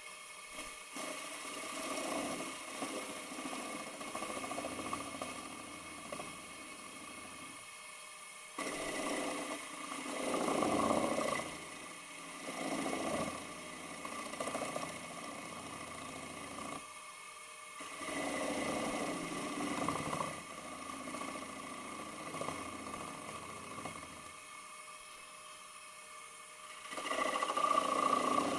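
Wood lathe running with a steady whine while a bowl gouge cuts the spinning magnolia bowl in several passes of a few seconds each, with short quieter pauses between cuts.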